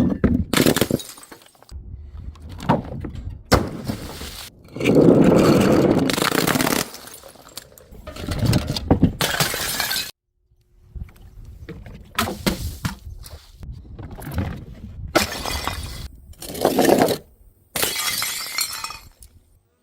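Glass bottles smashing on stairs, one after another: several separate loud crashes of breaking glass, each followed by shards scattering and clinking.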